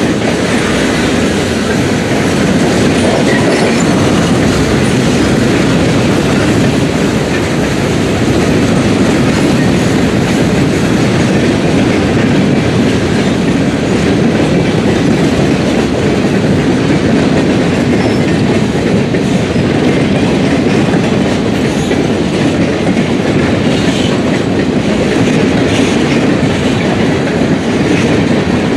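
Freight train cars rolling past, wheels clicking over rail joints in a steady, continuous run.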